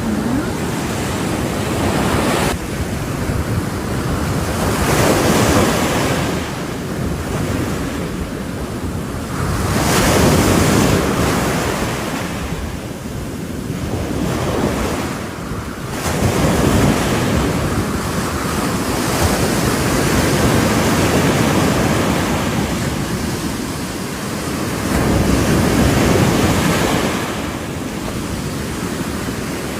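Ocean surf breaking on a shore, a steady rush of water that swells into louder crashes every few seconds and ebbs between them.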